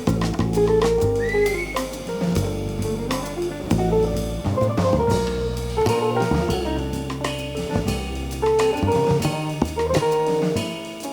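Live jazz combo playing: guitar lines over bass and drum kit, with steady cymbal and drum strokes.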